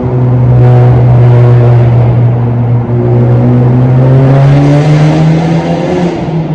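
Honda Civic Type R FK8's turbocharged 2.0-litre four-cylinder, with a Tomei Type D exhaust and catless downpipe, heard loud from inside the cabin. It drones steadily, then the revs climb gradually under acceleration before easing off near the end.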